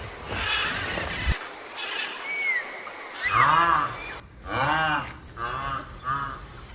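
Rhinoceros calling: a series of pitched calls, each rising then falling, two longer ones followed by two shorter ones, with abrupt breaks between clips.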